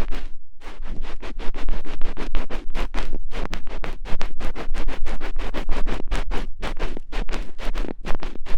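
ASMR ear-cleaning sounds: an ear pick scratching rapidly against the microphone, several strokes a second, with a short pause about half a second in.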